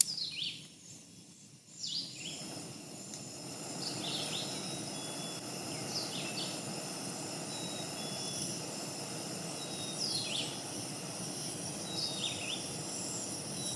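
Outdoor ambience: birds calling with short, quick downward chirps scattered throughout, over an even background hiss that comes in about two seconds in and then holds steady.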